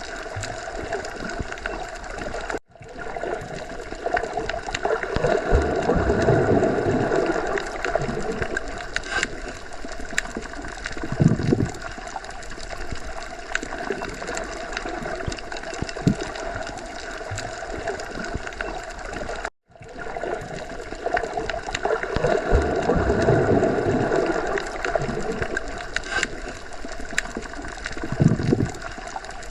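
Underwater ocean ambience: a steady wash of water noise that swells and eases, with short low surges. It cuts out for an instant twice, about 17 seconds apart, where the recording loops.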